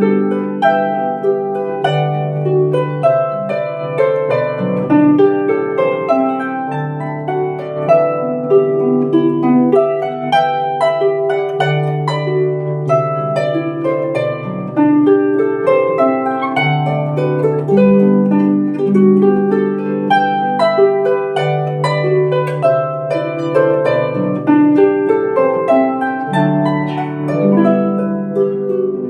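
Celtic harp playing a melody over plucked bass notes, each note ringing on after it is plucked.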